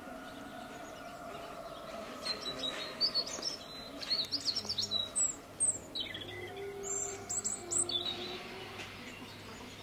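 Small birds chirping in quick runs of short, high notes from about two seconds in until near the end, over a steady low hum.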